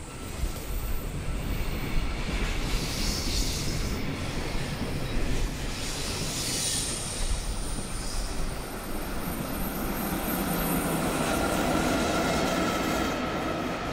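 Trains passing at close range: a freight train of container wagons, then a blue EF64 electric locomotive, with a steady rumble of wheels on rail. A thin high tone comes in during the last few seconds.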